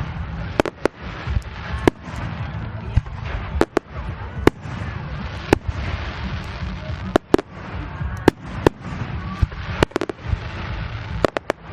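Fireworks display: an irregular series of sharp bangs, some coming in quick clusters of two or three, over a steady low rumble.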